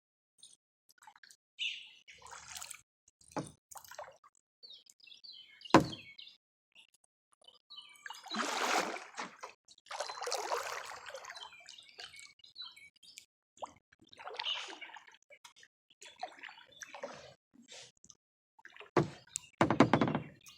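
Water dripping and splashing around a kayak, with birds chirping and scattered sharp knocks, the loudest about six seconds in.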